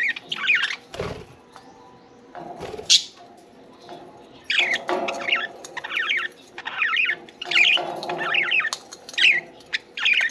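Budgerigars chirping and chattering in short, rapid bursts, coming thick and fast in the second half. There are a couple of low thuds or rustles in the first few seconds.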